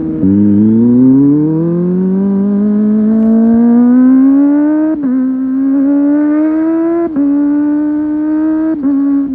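Kawasaki ZX-25R SE's 250 cc inline-four engine screaming as the motorcycle accelerates hard, its pitch climbing steadily through the revs. There are quick upshifts about five, seven and nine seconds in, each a short dip in pitch and loudness before it climbs again.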